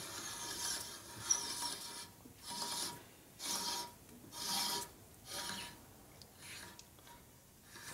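Adjustable hand reamer being turned by hand in a panhead rocker arm block bore, scraping the metal in repeated turns about once a second with a faint squeal, fading toward the end. It is taking only a light cut.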